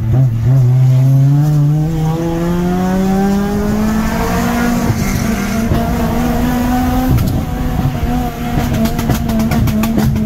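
Car engine heard from inside the cabin under hard acceleration, its revs climbing steadily over the first four seconds and then held high for the rest.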